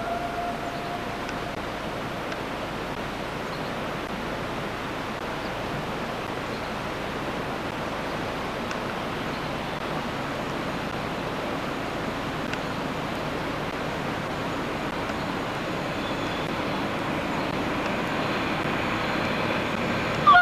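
Train running along the line: a steady rushing noise with no clear engine note, growing slightly louder near the end.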